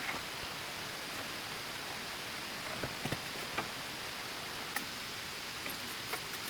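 Steady, even rushing noise with a few scattered light clicks and taps.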